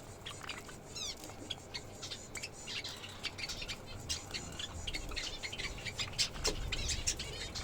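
A flock of small pet birds chirping and squawking, with many short rapid chirps and a few quick sweeping calls.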